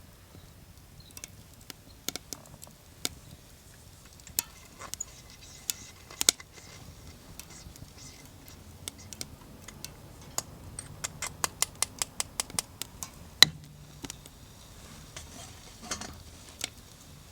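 Wood fire crackling with irregular sharp pops and clicks, including a quicker run of clicks past the middle.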